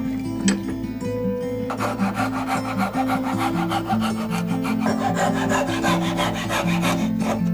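Hand saw cutting wood in quick, even back-and-forth strokes. It starts about two seconds in and stops just before the end, over acoustic guitar music.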